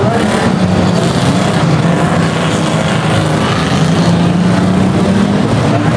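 Engines of a field of banger-racing cars running hard around the track: a loud, steady drone whose pitch shifts a little as the cars rev.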